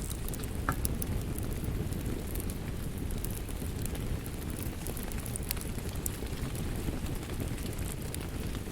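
Wood fire crackling in a fireplace: a steady low rumble of flames with scattered sharp snaps and pops.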